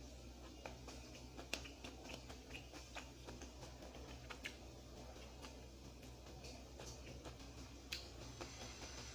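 A person eating: faint, scattered small clicks and smacks of chewing, about one or two a second, over a low steady hum.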